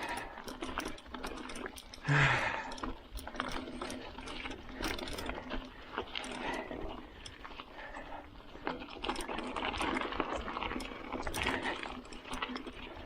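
Bicycle clattering over rough, wet trail, with many quick clicks and knocks from the bike and tyres and a louder jolt about two seconds in.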